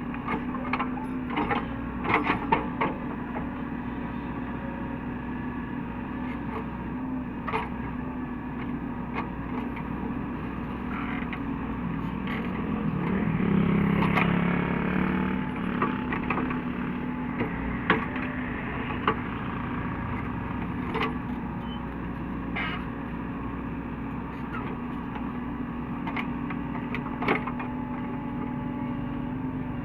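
A Caterpillar 307E2 mini hydraulic excavator's diesel engine running steadily, with scattered sharp metallic knocks and clanks from the machine at work. About halfway through, the engine rises under load for a few seconds, then settles.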